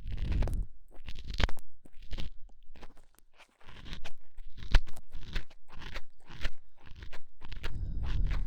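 An ear pick scraping and crackling in the ear close to the microphone, in irregular scratchy strokes with a short pause about three seconds in.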